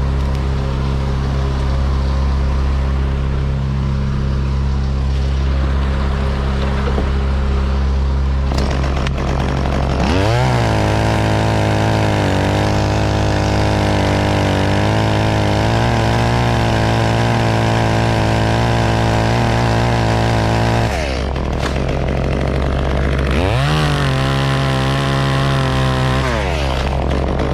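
Chainsaw revved up to full throttle and held steady for about ten seconds, dropping back to idle, then revved up again near the end. A steady low engine hum from a second machine runs underneath.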